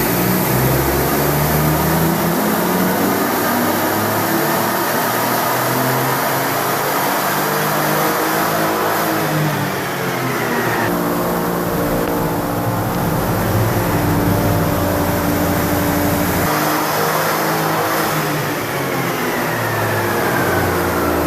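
MINI Cooper's B38 turbocharged three-cylinder engine under load on a chassis dyno, revving with its pitch climbing and dropping several times over the run. A high whine falls in pitch twice, and the engine note cuts off suddenly at the end.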